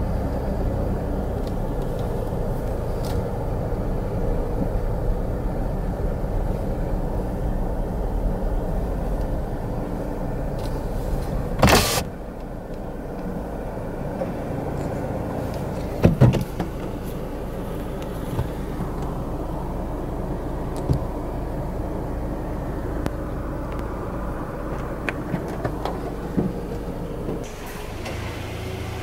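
Car engine idling, heard from inside the cabin as a steady low hum. A short, loud noise comes about twelve seconds in and a knock about four seconds later. Near the end the hum gives way to a different, quieter one.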